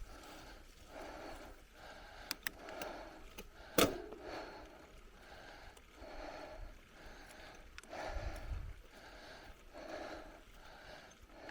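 A cyclist's heavy, rhythmic breathing, about one breath every two-thirds of a second, with a few sharp clicks and one loud knock a little before four seconds in.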